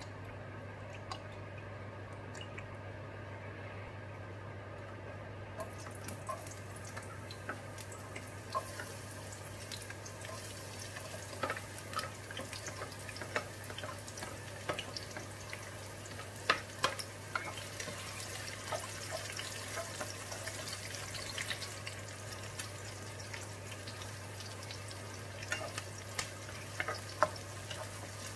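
Sliced red onion sizzling in hot oil in a wok, the hiss starting about five seconds in. Scattered clicks and taps come from a wooden spatula scraping onion in from a plate and stirring it in the pan.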